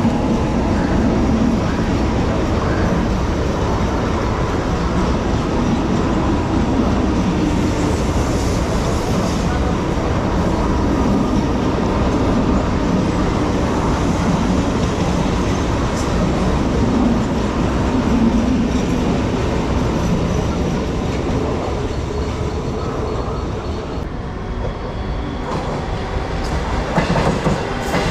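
Mumbai suburban EMU local train running past close by, its wheels rumbling steadily on the track. In the last few seconds the noise dips briefly, then a run of sharp clatters follows.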